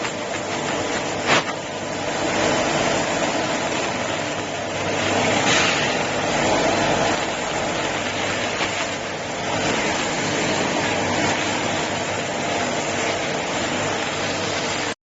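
Brush polishing and sanding machine for doors running with a steady mechanical noise and a low hum, with one sharp click a little over a second in. The sound cuts off suddenly near the end.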